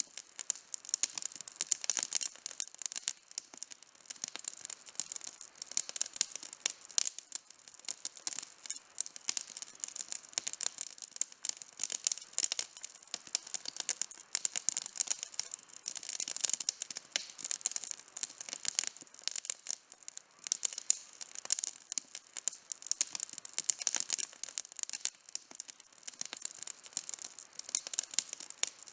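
Outdoor campfire burning, the wood crackling and popping in a dense, continuous run of sharp snaps.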